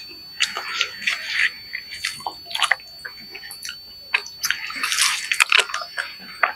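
Close, wet chewing and lip-smacking of a man eating chicken liver in gravy with his hands, in quick, irregular smacks and squelches.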